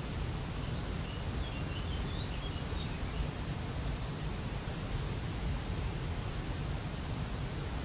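Waterfall rushing steadily, with a few faint bird chirps between about one and three seconds in.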